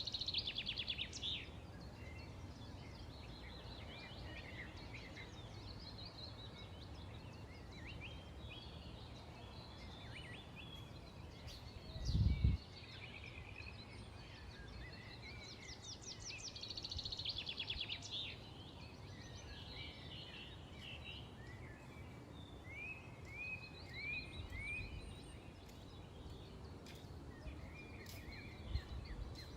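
Several small songbirds chirping and calling, with a fast trill at the start and again about two-thirds through, over a steady low background rumble. A single dull low thump about twelve seconds in is the loudest sound.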